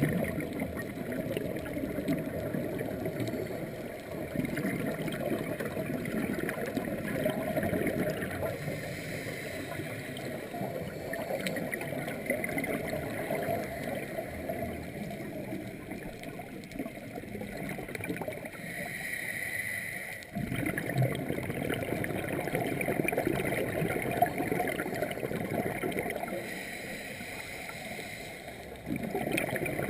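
Underwater bubbling and gurgling from scuba divers' exhaled regulator bubbles, a continuous rushing noise. It breaks off briefly about twenty seconds in and gets louder near the end.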